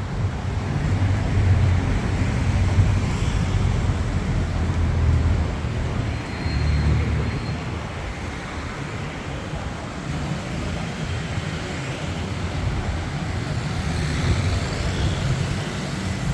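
Roadside traffic noise: a steady low rumble of passing vehicles that swells and fades as they go by.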